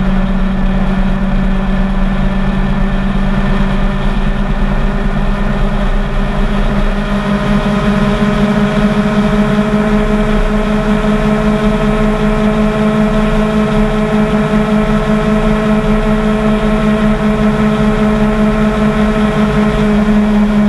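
Motorcycle engine running steadily at highway cruising speed, its note rising slightly about seven seconds in as it gathers speed.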